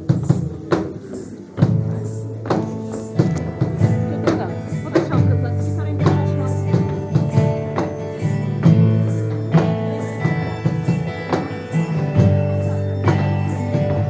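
Live Celtic folk music: regular drum beats with a melody line, and a steady low drone that comes in about a second and a half in.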